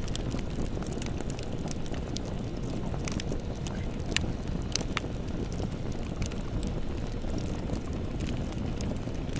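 Campfire burning: a steady low rumble of flames with scattered sharp crackles and pops of burning wood, the loudest a little past four seconds in.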